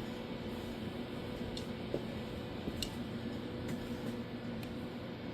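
Steady background hum with a few held tones, and about four faint ticks spread through it.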